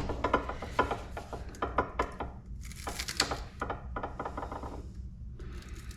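Scrap metal parts being handled: a run of small clicks and knocks, with a brief scraping rub about three seconds in, over a steady low hum.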